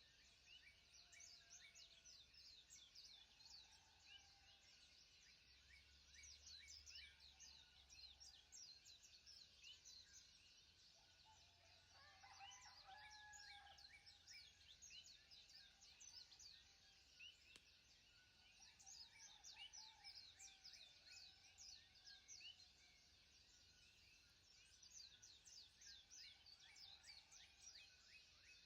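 Faint chorus of small birds chirping: a dense, steady stream of quick high chirps, with a few lower whistled notes now and then.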